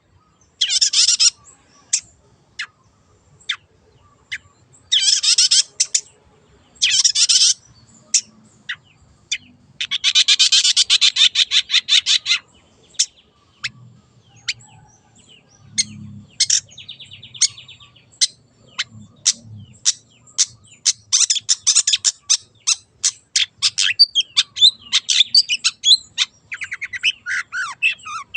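Long-tailed shrike (cendet) singing: loud, fast rattling trills of a second or so, one lasting about two and a half seconds near the middle, between runs of sharp single chips.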